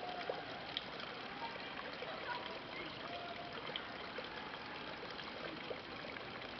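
Steady trickle and babble of running stream water, with small gurgles and ticks scattered through it.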